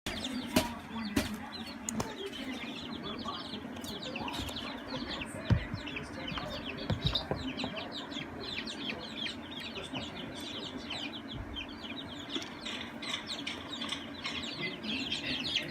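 Chickens peeping in a rapid, continuous stream of short falling chirps over a steady low hum, with a few sharp knocks.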